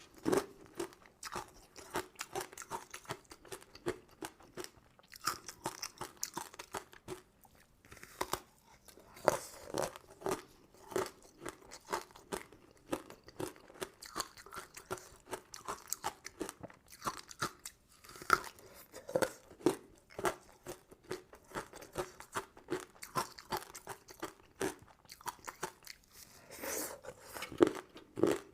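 Close-up ASMR eating sounds: crunchy sugar-coated crystal candy and jelly sweets being bitten and chewed in quick, crisp crunches, with a couple of brief pauses.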